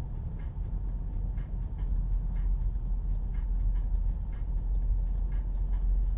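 Car engine and road noise heard from inside the cabin on a dashcam: a steady low rumble, with faint ticking repeating at an even pace, about three times a second.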